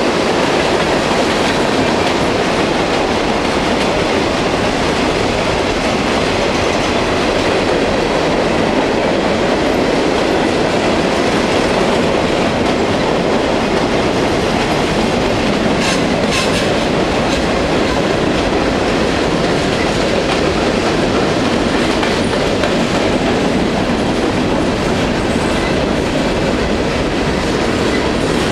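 Freight train cars, mostly boxcars, rolling past at close range at a steady speed: a continuous noise of steel wheels running on the rails.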